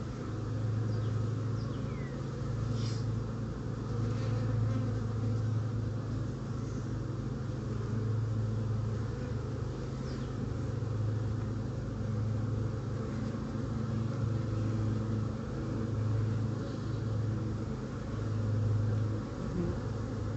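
Steady hum of a large honeybee colony with the hive open, swelling and easing every couple of seconds.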